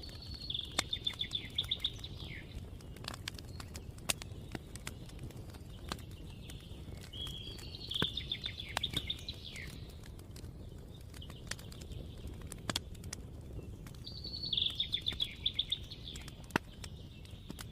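A fire crackling, with scattered sharp pops over a low steady rumble, while a songbird sings three short trilled phrases several seconds apart.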